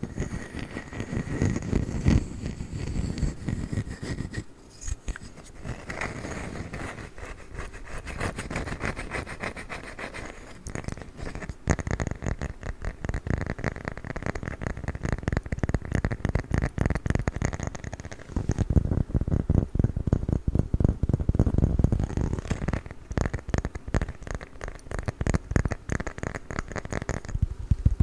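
Rapid ASMR tapping and scratching on a wooden lid, a dense run of quick strokes that shifts in intensity, heavier and lower from about two-thirds of the way in.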